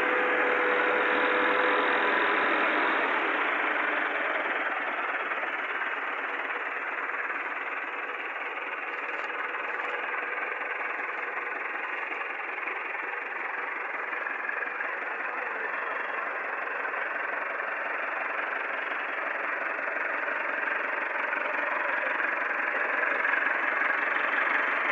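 Tractor engine running steadily, its level easing a little midway and rising again near the end.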